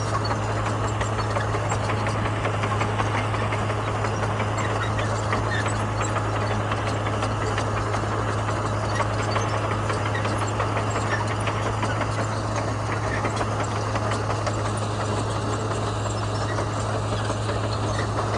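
Komatsu bulldozer's diesel engine running steadily with a constant low drone, with a dense fine clatter over it.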